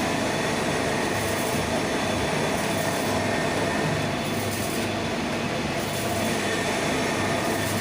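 Machinery running steadily and loudly: a low rumble with a few thin steady tones above it.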